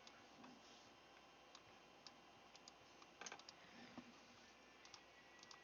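Near silence with faint scattered small clicks, a short cluster of them about three seconds in.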